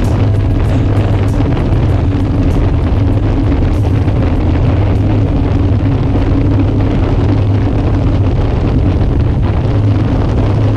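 Steady, unbroken engine drone with wind noise buffeting the microphone.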